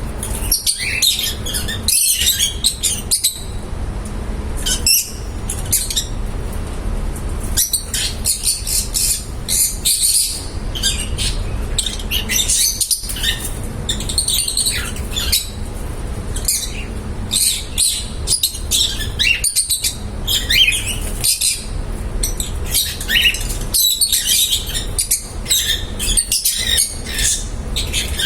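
Small pet parrots chirping and chattering in quick, dense bursts of high calls, over a steady low hum.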